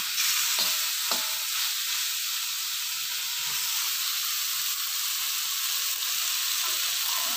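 Crumbled oncom sizzling in a hot wok while a metal spatula stirs and scrapes it, with a couple of light spatula knocks about a second in.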